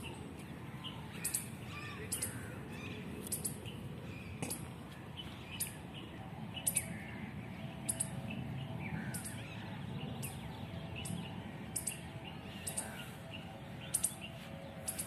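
Birds chirping and calling, with many short chirps and a short high note that repeats about once a second.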